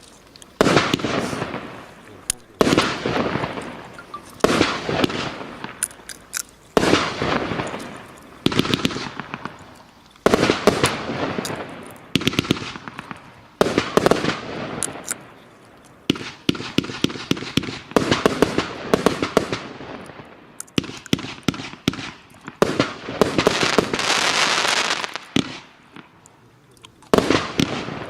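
Fireworks going off in a long series: a sharp burst every second or two, each fading away in a crackle of rapid pops. A denser run of crackling comes past the middle, then a few seconds of steady hissing crackle before one last burst near the end.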